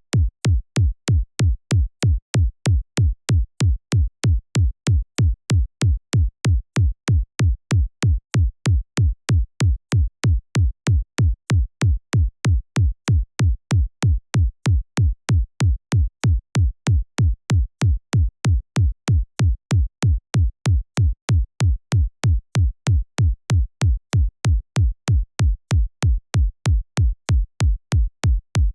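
Synthesized electronic kick drum from the Kick 2 plugin repeating alone on every beat, about two hits a second. Each hit is a deep thump that falls in pitch, with a short click at the attack and silence between hits.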